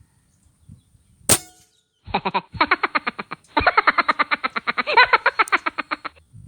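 A single sharp crack about a second in, then a fast run of repeated knocking call notes, some nine to ten a second, with one short break: the call of a watercock (sintar), used as a hunting lure.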